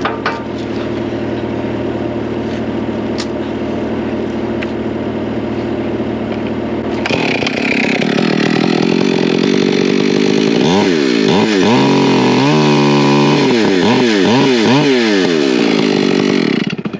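Engine idling steadily, then about halfway through a chainsaw is run up and cuts. Its pitch rises and falls again and again as it works under load, and it stops suddenly near the end.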